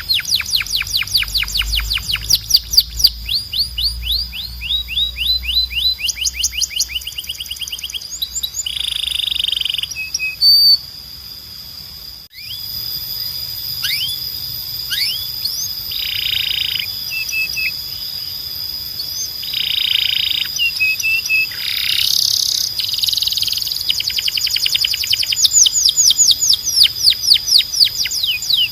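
Belgian canary singing: fast trills of repeated rising notes, brief buzzy notes and a steady high ringing note. The song breaks off for a moment about twelve seconds in.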